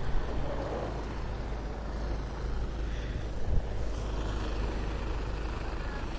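A vehicle engine running in a steady low rumble.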